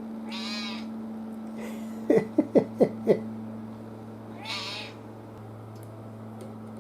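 Domestic cat meowing: a call, then a quick run of five short meows falling in pitch, then another call.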